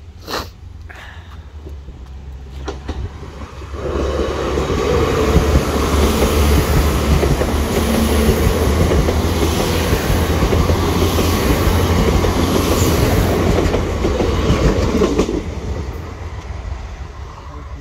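A diesel multiple-unit passenger train passes the level crossing at speed, with a rumble and clatter of wheels on the rails. It grows loud about four seconds in, holds until about fifteen seconds in, then fades as the train draws away.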